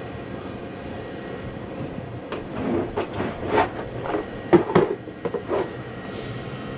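Gas furnace running steadily with its burner lit. A quick run of knocks and clatter about two to six seconds in.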